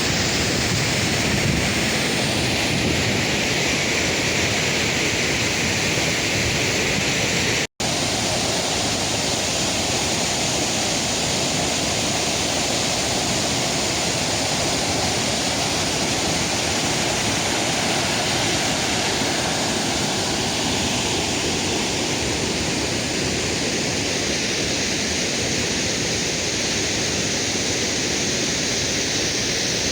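Steady, loud rushing of a waterfall, with a split-second break about eight seconds in.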